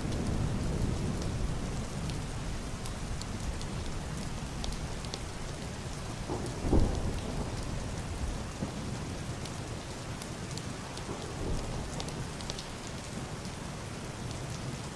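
Heavy rain on a roof and glass window, a steady hiss with scattered sharp drop ticks. A low thunder rumble eases off over the first few seconds, and a brief loud low thud of thunder comes about halfway through.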